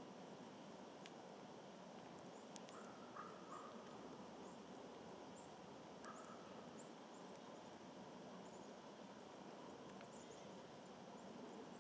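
Faint outdoor ambience: small birds giving short, very high thin call notes scattered throughout over a steady soft hiss, with a few lower chirps and faint clicks.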